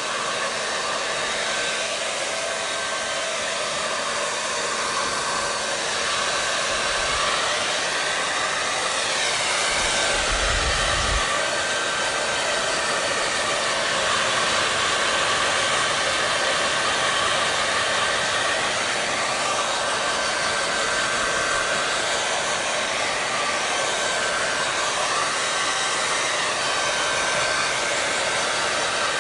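Hair dryer running steadily: a constant rush of blown air with a faint steady whine, its tone shifting slowly now and then, and a brief low rumble about ten seconds in.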